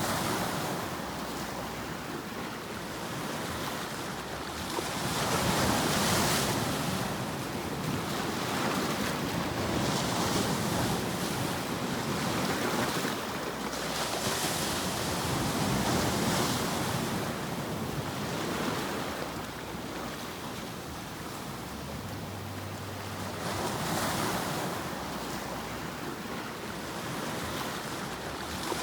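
Ocean surf: a continuous rushing noise that swells and recedes every few seconds as waves break and wash back.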